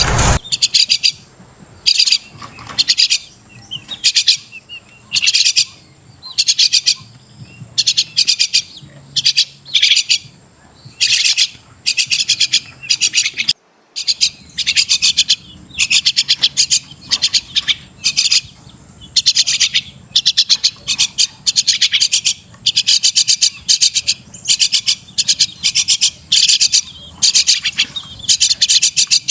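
Crested myna calling: a long series of short chattering bursts of quick, high notes, one after another with short gaps. The sound cuts out briefly about halfway through.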